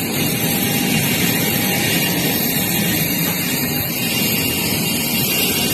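Steady noise of jet aircraft engines running, with a faint high whine over a low rumble.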